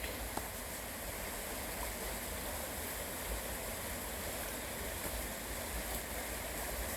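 Creek water running, a steady rushing with no break.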